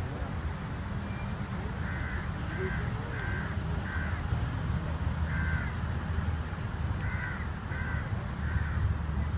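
Crows cawing again and again, in runs of two to four short calls, over a steady low rumble.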